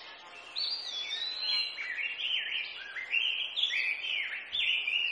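Small birds chirping: a quick run of overlapping, down-slurred chirps that starts about half a second in and keeps on.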